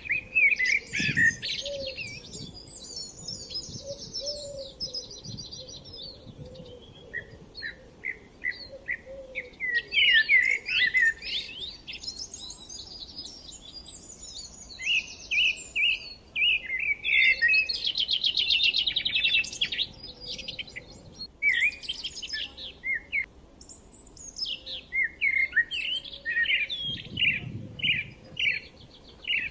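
Forest songbirds singing in overlapping bouts of quick chirps and fast high trills, with short pauses between bouts.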